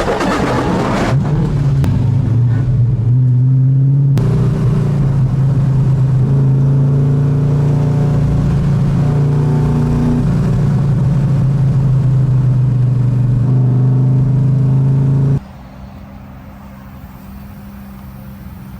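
Car engine running loud at fairly steady revs, with small rises and falls in pitch and abrupt jumps where the sound is cut. About 15 s in it drops suddenly to a much quieter, steady low hum.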